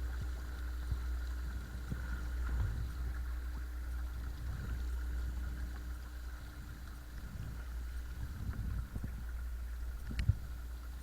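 Watersnake T24 12-volt electric trolling motor running steadily on a kayak, a thin steady whine over a low rumble of water against the hull. A single sharp knock comes near the end.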